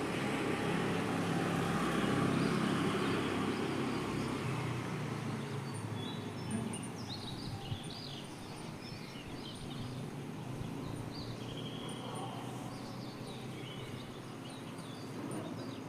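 Birds chirping, many short high calls from about six seconds in, over a steady low rumble of background noise that is loudest in the first few seconds and then eases.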